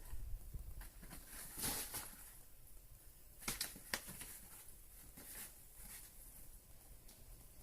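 Faint, scattered scratches and taps as a cat paws at a play-centre toy. There are a few sharper scrapes about two seconds in and again near four seconds.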